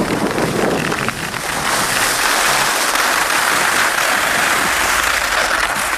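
Skis side-slipping down a snow slope: a steady, loud scraping hiss of ski edges on snow, which grows stronger about two seconds in.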